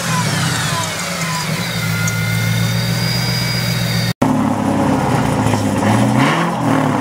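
Supercharged V8 of a Ford Mustang Shelby GT500 settling from a rev to a steady idle, with the supercharger's high whine falling in pitch as the revs drop. After a short break in the sound about four seconds in, a brief rev blip rises and falls about six seconds in.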